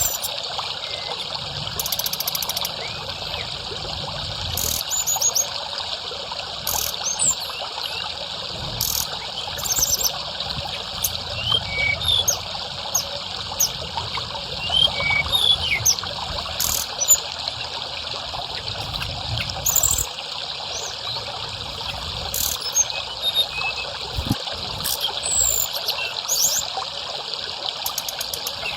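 A stream running steadily, with short, thin, high bird calls scattered through it: quick upswept whistles and chips, as in a tledekan (forktail) therapy recording.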